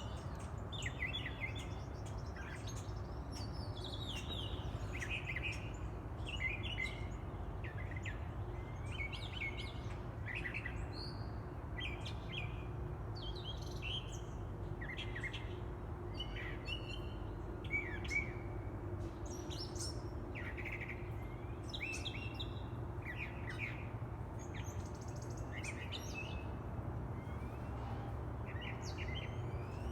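Songbirds chirping and calling in many short, quick notes, several overlapping, over a steady low background rumble.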